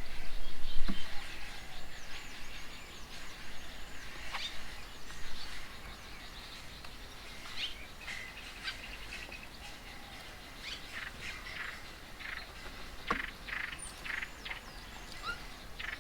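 Several birds chirping and calling in short, scattered notes, busier in the second half, over a low rumble in the first couple of seconds.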